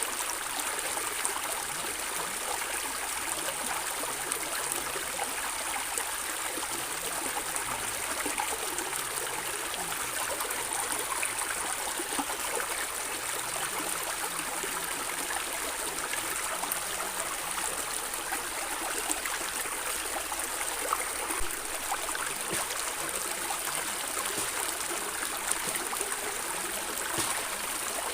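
Running water gurgling steadily, with small splashes and trickles.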